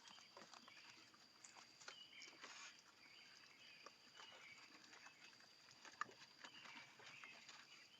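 Faint raccoon sounds: scattered small clicks and scuffles with short high chirps, over a steady faint high tone. One sharper click comes about six seconds in.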